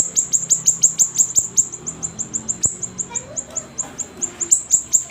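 A siri-siri songbird chirping in full voice: a rapid run of short, high chirps, each dropping in pitch, about six a second, with a brief break about four seconds in.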